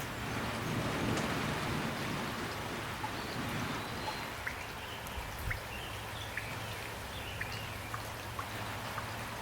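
Steady rain falling, with single drops ticking now and then over the even hiss.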